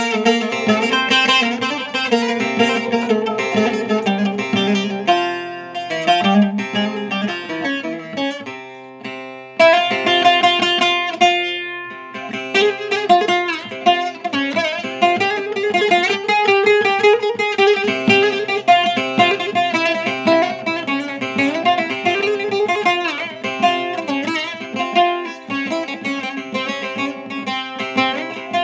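Bağlama (saz) played solo in a free-rhythm uzun hava improvisation: quick plucked runs over ringing strings. The playing drops away briefly about nine seconds in, then comes back strongly.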